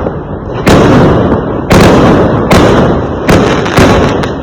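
Fireworks exploding: five loud bangs at irregular intervals, roughly a second apart, each followed by a rumbling, echoing decay.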